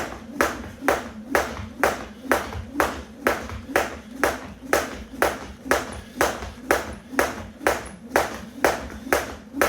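A 1 lb weighted Crossrope jump rope slapping the floor in a steady skipping rhythm, about two strikes a second.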